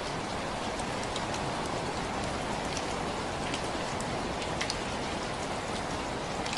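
Steady rain falling, a dense even hiss with many distinct drops ticking sharply on a surface.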